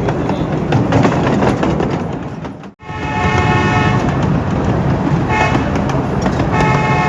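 Steam whistle of a 12-inch gauge live steam locomotive blowing three blasts, the last still sounding at the end, over the steady rumble of the train running on the track. The sound breaks off abruptly for an instant about three seconds in, just before the first blast.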